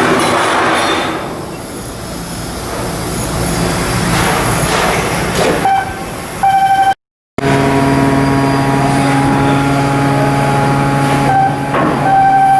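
Shipyard machinery noise: a steady mechanical hum with a higher beeping tone that sounds on and off. The sound breaks off for a moment about seven seconds in.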